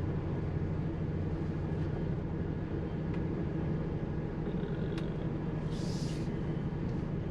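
HGV tractor unit's diesel engine running steadily at low revs from inside the cab as the lorry reverses, with a short hiss about six seconds in.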